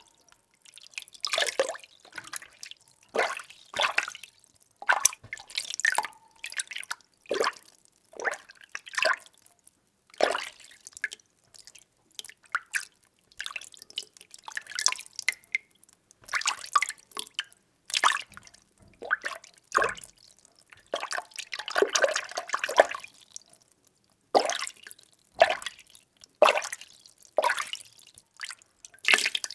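Water being stirred by hand in a container: repeated short swishes and splashes, one every half second to a second, with a longer stretch of sloshing about three-quarters of the way through.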